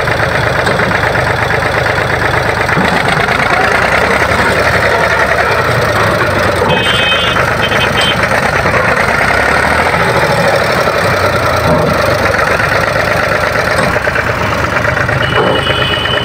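Mahindra B275 DI tractor's diesel engine idling steadily.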